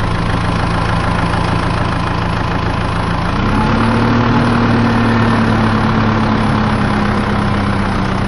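Tractor engine running with a steady low hum; a little over three seconds in, it revs up a step and holds at the higher pitch.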